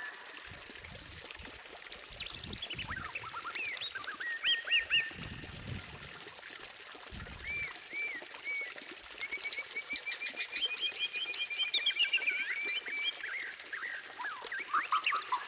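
White-rumped shama (murai batu) singing a varied series of whistled phrases with sweeping, gliding notes. About two-thirds of the way in comes a rapid run of high ticking notes over a held whistle.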